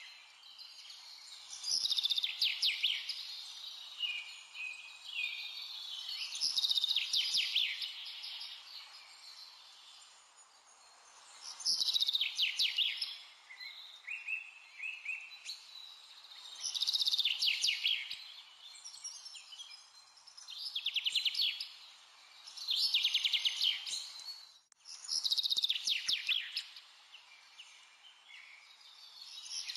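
Birdsong: phrases of rapid, high trilling chirps, each lasting a second or two and coming every four to five seconds, over a faint steady hiss.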